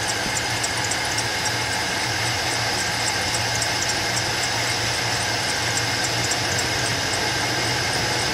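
Chevrolet Suburban engine idling steadily, with a regular light ticking over the hum. The owner says it does this all the time, whether remote-started or started with the key.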